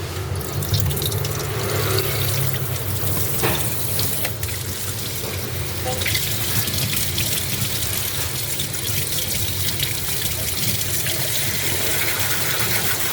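Water running steadily from an open washbasin tap, with a steady low hum underneath.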